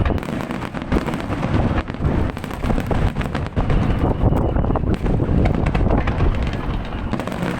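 Fireworks display: many shells bursting in quick succession, deep booms overlapping with sharp cracks.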